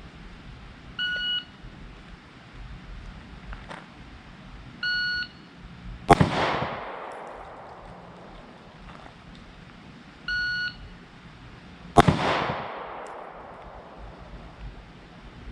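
Shot-timer start beeps, each followed about a second later by a single shot from a Glock 43X 9mm pistol: three short beeps and two shots. Each shot is the loudest sound, with a long echoing tail.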